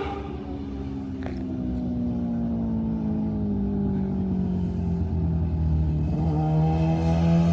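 High-displacement racing motorcycle engine warming up: falling back from high revs, its pitch sliding slowly down for several seconds, then rising a little and holding about six seconds in.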